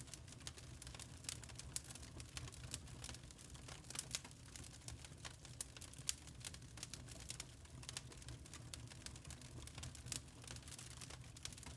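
Burning charcoal crackling: faint, irregular sharp pops and ticks, several a second, over a low steady rumble.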